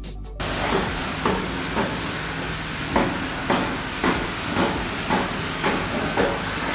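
Compressed air hissing steadily from an air tool, starting abruptly shortly after the beginning, with a light knock about twice a second.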